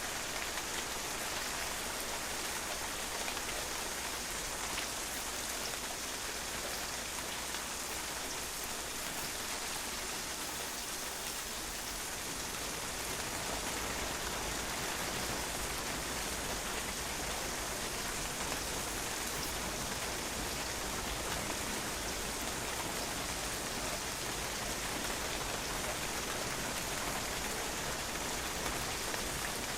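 Steady rain falling, its drops pattering on a patio in a dense, even hiss with no pauses.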